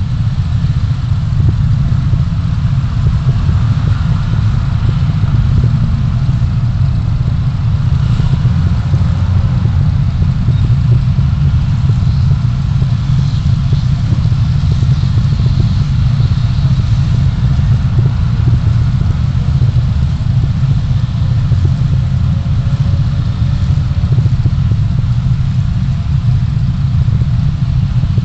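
Steady low rumble of a car on the move, engine and road noise picked up by a dashcam, with no sudden events.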